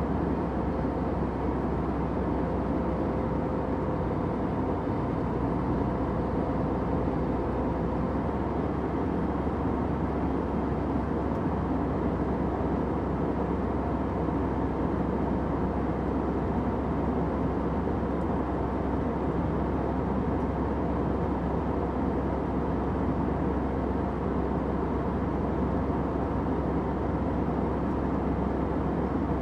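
Steady low drone of an airliner cabin in flight, engine and airflow noise with most weight in the low end, and a faint steady hum that fades out about eight seconds in.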